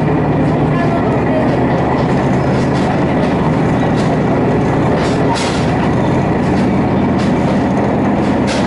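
Diesel railcar running along the line, heard from inside the passenger cabin: a steady engine drone under dense wheel-on-rail rumble. A few sharp wheel clicks come over the rail joints, around the middle and near the end.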